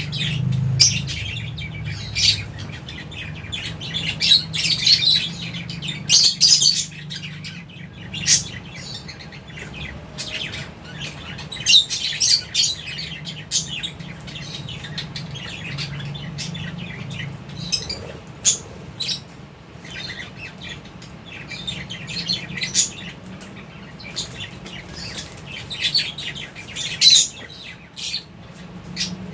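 A flock of lovebirds chirping, with many short, sharp calls overlapping and coming in clusters, over a steady low hum.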